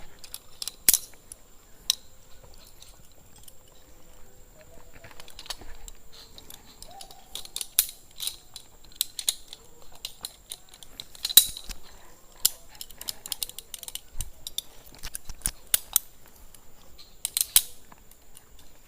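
Scattered metallic clicks and clinks of zipline gear: carabiners and trolleys on the steel cable being handled and clipped. The clicks are irregular, the sharpest one about eleven seconds in.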